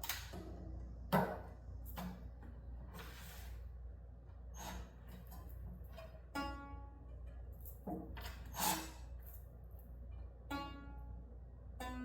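Single notes plucked one at a time on a stringed instrument, each ringing and fading, with sharp knocks and clicks of handling between them, as during tuning.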